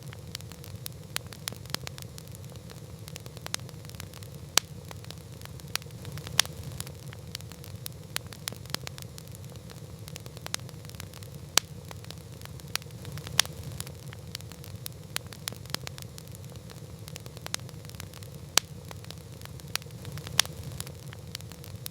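Campfire burning with a steady low rumble and irregular sharp crackles and pops of burning wood, a few louder snaps among many small ones.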